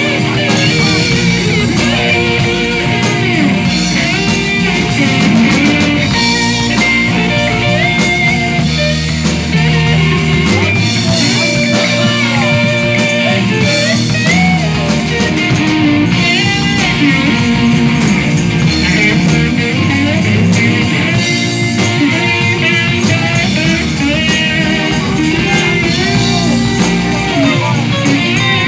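Live band playing rock-blues, with electric guitar lines bending in pitch over bass and drums, and some singing.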